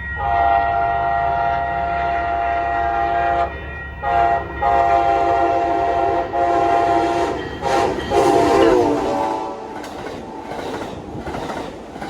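Amtrak Siemens Charger diesel locomotive's multi-chime air horn sounding a series of blasts, long, short, long, then a last blast that falls in pitch as the locomotive passes. The passenger train then rumbles by with wheel clatter.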